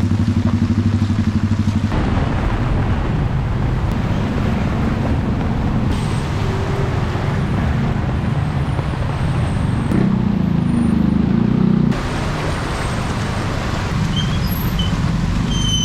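Motor-vehicle engines running in street traffic over a steady wash of noise, one engine chugging with a rapid throb at the start; the sound changes abruptly several times.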